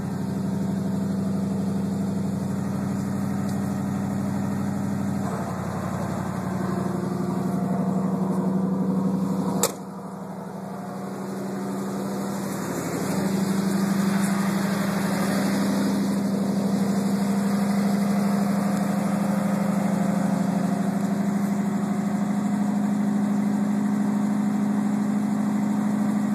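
1986 Ford F-150's carbureted 302 V8 idling steadily just after a cold start in near-freezing weather. About ten seconds in, a sharp click comes with a brief drop in level, and the sound builds back up over the next few seconds.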